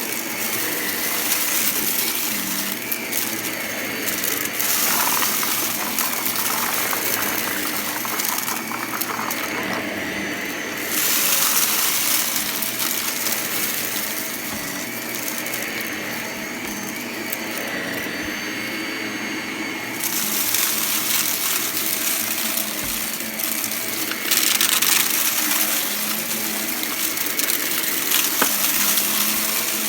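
Vacuum cleaner running and sucking up crunchy debris that crackles and rattles through it. The high hiss dulls twice for a few seconds.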